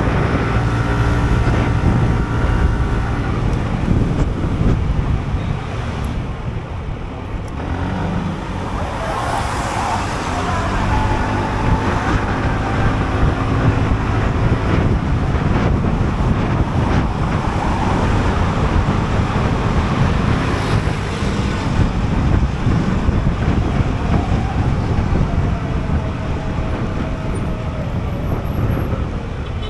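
Sym Jet X 125 scooter riding in city traffic: its single-cylinder engine running under way, with steady wind and road noise and other vehicles around it.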